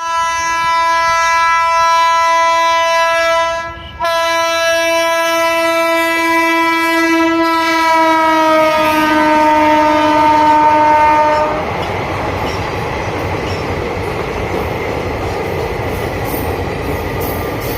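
Passing train's locomotive horn: a blast of about three seconds, a brief break, then a long held blast whose pitch falls as the locomotive goes by. The horn then gives way to the steady rumble and clatter of the coaches rolling past.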